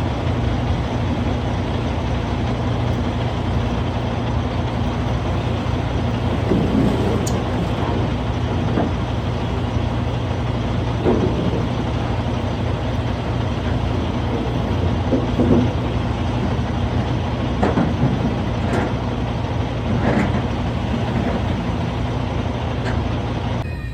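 Heavy diesel truck engine running steadily, with scattered knocks and clunks.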